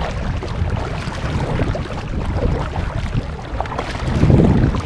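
Uneven low rumble of wind buffeting the microphone as a storm approaches.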